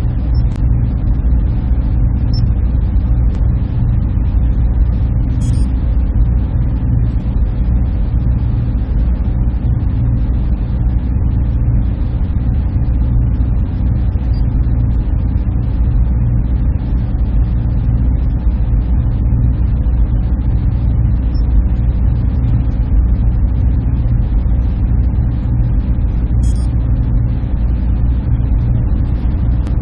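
Server room ambience: a steady, low drone of running machines and their cooling fans.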